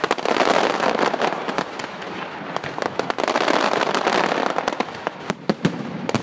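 Fireworks display going off: a dense crackle of many bursts with sharp bangs through it, swelling twice. Near the end come a few louder single bangs.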